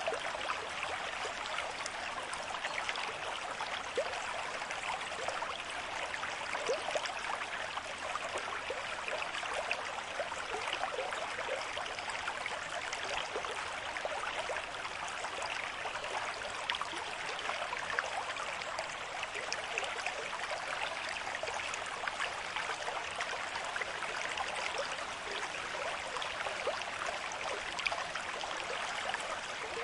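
River stream of moderate flow, water running and splashing over stones with a steady rush and many small gurgles and splashes.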